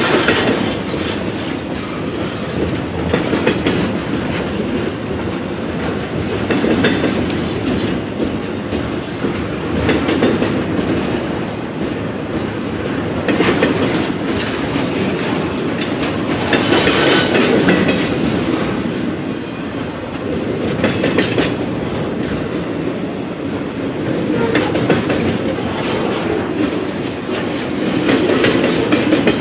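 Double-stack container freight cars rolling past: a steady rumble of steel wheels on rail with clickety-clack over the rail joints, swelling every three to four seconds as each car goes by.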